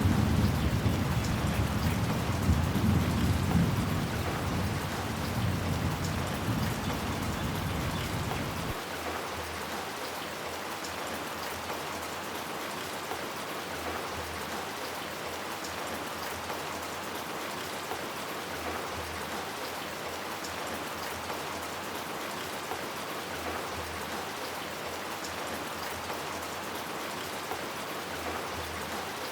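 Steady rain pattering, with a low rolling rumble of thunder that dies away over the first nine seconds and then stops abruptly, leaving the rain alone.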